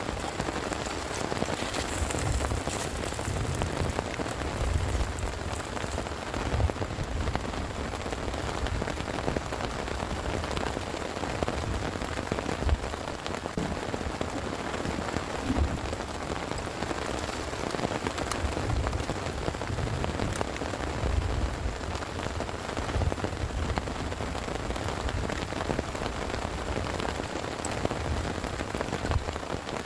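Heavy rain falling steadily, with many single drops striking sharply over the constant hiss and an uneven low rumbling underneath.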